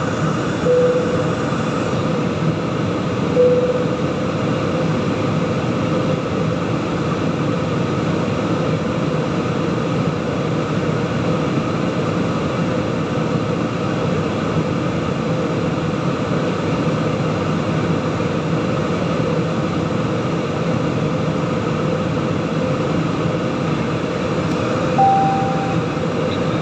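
Steady engine and airflow noise inside an airliner's passenger cabin during the flight. Three brief tones sound over it: two in the first few seconds and a higher one near the end.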